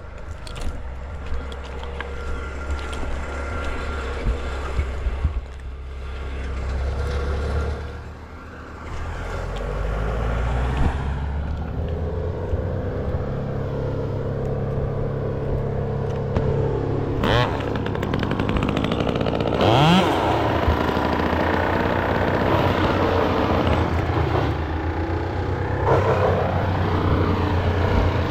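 A motor running steadily, briefly quieter about eight seconds in, with a rising rev about twenty seconds in.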